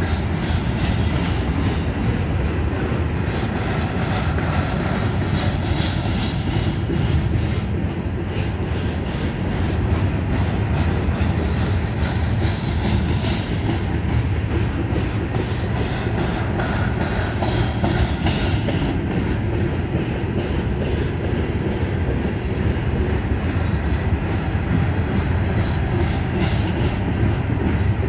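CSX mixed freight train of flatcars carrying green open-top containers rolling steadily past: a continuous low rumble with the clatter and clicking of wheels on the rails.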